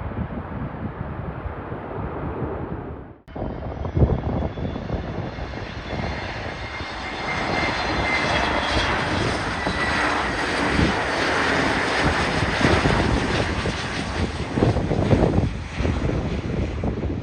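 A landing airliner's jet engines passing low overhead. After about three seconds the engine noise with a high whine swells and stays loud until near the end, while wind buffets the microphone.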